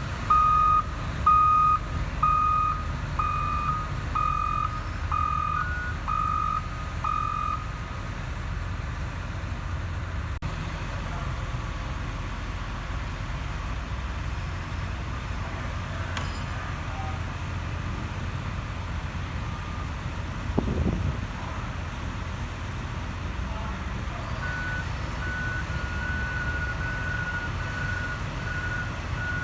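Heavy-equipment backup alarm beeping about once a second for the first several seconds, over the low steady rumble of diesel machinery. Near the end a second, higher-pitched backup alarm starts beeping.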